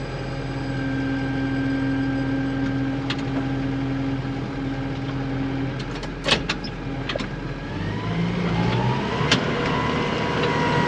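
Farm tractor engine running steadily under load while pushing through deep snow. About eight seconds in its note changes and a rising whine comes in and holds. A few sharp clicks or knocks are heard along the way.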